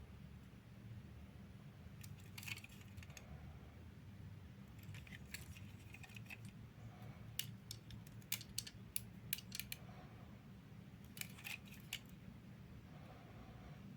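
Scattered light clicks and clinks of small hard objects, some in quick clusters, over a faint steady low hum.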